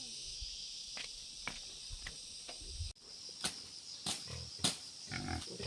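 A steady high insect trill, with a series of sharp chopping strikes as a blade slashes brush to clear the ground. The three loudest chops come in the second half, about half a second apart.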